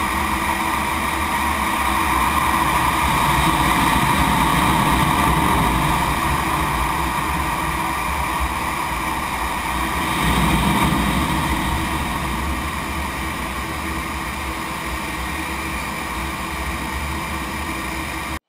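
Military jet engine running with a steady, loud noise, swelling a little twice before it cuts off suddenly near the end.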